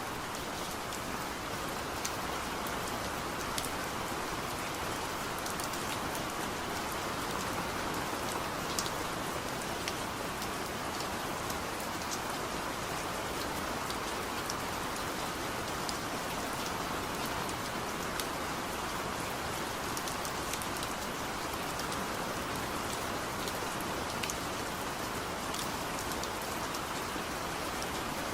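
Heavy rain falling steadily, a dense even hiss with scattered drops ticking sharply on a surface.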